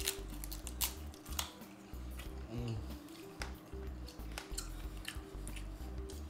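Close-miked chewing of crispy roasted pig ear and skin, with short sharp crunches scattered throughout, over background music with a steady low beat.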